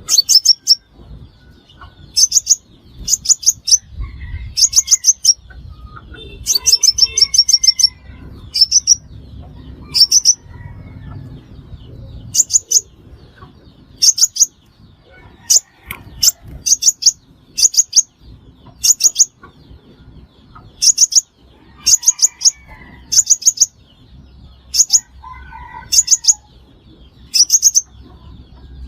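Five-colour sunbird (chim hút mật 5 màu) call used as a trapping lure: short, very high-pitched chirps in quick clusters of two to five notes, repeating about once a second.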